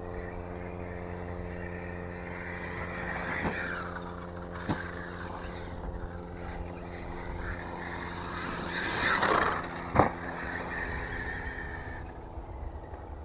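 Arrma Mojave 6S RC truck's brushless motor whining up and down as it is driven, with sharp knocks of the truck landing or hitting the ground three times, the loudest near the end after a burst of throttle. A steady low hum runs underneath.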